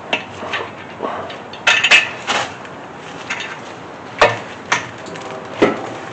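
Irregular metal clinks and clanks of tools and bolts being handled while fitting an engine stand's mounting head to a Chevy 350 small-block, with a louder cluster of knocks about two seconds in.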